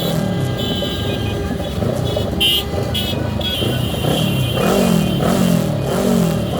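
Motorcycle and car engines running together in heavy, slow traffic, their pitch rising and falling over and over as riders blip the throttle. A short high-pitched sound cuts through about two and a half seconds in.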